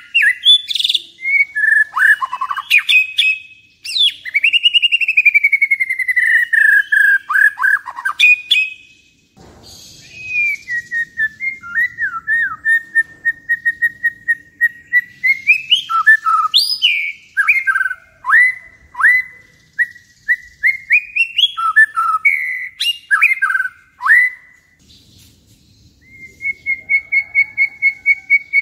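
White-rumped shama singing a loud, varied song of long clear whistles mixed with quick sweeping notes and sharp chips, used as a lure call to rouse another shama into song. The song breaks off briefly about nine seconds in and again near the end.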